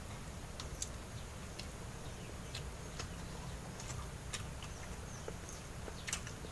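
Chewing with scattered, irregular wet mouth smacks and clicks over a low steady hum.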